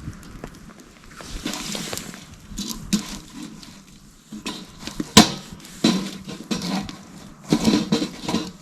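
Irregular scuffs and knocks of a person moving about and handling things, with one sharp knock about five seconds in.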